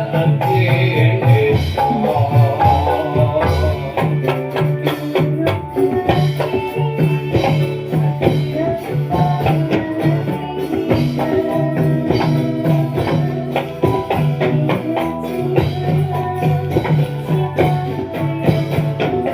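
Live dolalak band music playing an instrumental passage with no singing: jingling tambourine-like percussion and drum strikes in a steady rhythm over a sustained bass and a busy pitched melody.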